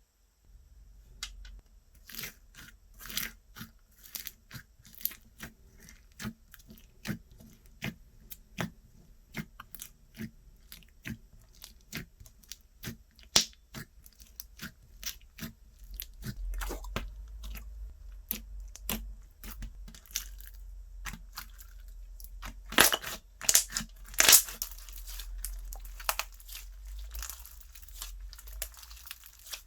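Slime being pressed, poked and stretched by hand, giving a run of sharp crackles and pops. The crackling thickens for the last third, with the loudest pops a little past the middle and near the end.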